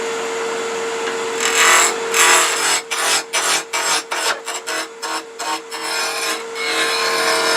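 Wood lathe running at speed with a steady motor hum while a spindle roughing gouge cuts a small square oak blank, starting about a second and a half in. In the middle the cut breaks into a rapid chatter of separate strokes, the interrupted cut of a square blank being rounded, and it runs smoother near the end.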